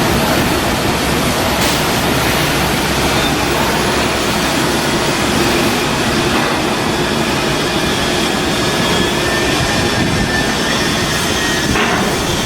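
Loud, steady, dense machinery noise of shipyard work, with no clear rhythm and a few faint steady tones in it.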